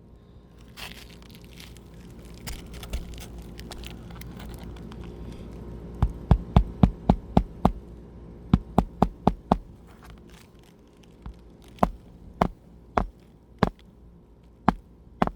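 Hammer striking roofing nails into an asphalt shingle. It opens with a few seconds of light crinkling as the shingle is handled. About six seconds in comes a quick run of about seven sharp taps, then another run of about five, and near the end slower single strikes, one roughly every half second or so.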